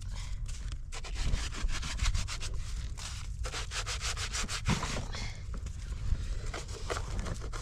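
Rapid, repeated rubbing or scraping strokes, several a second, over a steady low rumble.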